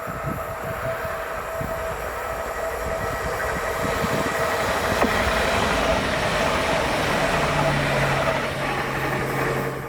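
A train running past on the line: a steady rumble of wheels on track with a constant whine, growing gradually louder. A low hum joins about seven and a half seconds in.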